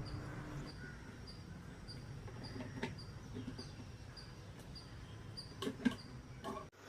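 Faint outdoor background: a short, high chirp repeating about twice a second, with a few soft knocks.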